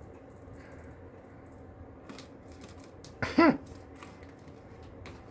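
Faint scattered light clicks and scratching from a pet parrot. About three seconds in comes one short, loud parrot call whose pitch rises and then falls.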